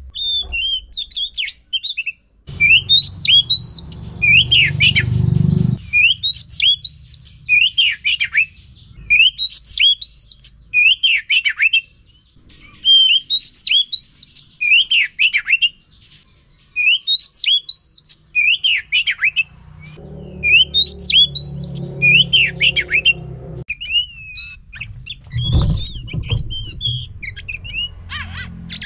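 Oriental magpie-robin singing a loud run of short, sweeping whistled phrases, about one a second. A low background rumble comes in twice, and there is a thump near the end.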